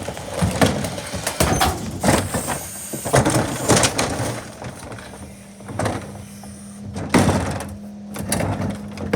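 Electric garbage truck collecting trash cans: irregular clanks and bangs of cans and trash being handled, with a steady low hum from the truck starting a little past halfway.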